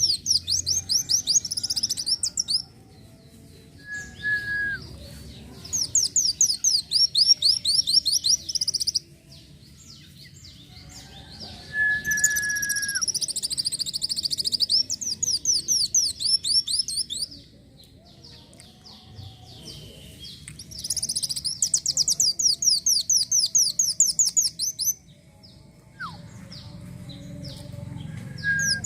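Kolibri wulung sunbird singing. Four bursts of rapid, high trilled chirps, each a few seconds long, with pauses between them. A few short lower whistled notes fall in the gaps.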